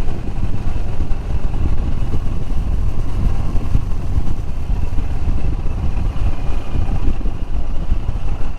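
Royal Enfield Himalayan's single-cylinder engine running while riding, with heavy wind rumble buffeting the microphone.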